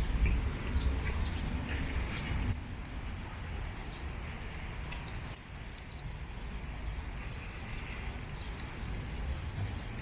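Small birds chirping: short, high notes that fall in pitch, repeated about once or twice a second. Under them is a low rumble that drops away about two and a half seconds in.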